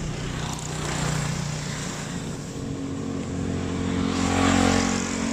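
A motor vehicle's engine running close by. It grows louder to a peak about four and a half seconds in as it passes.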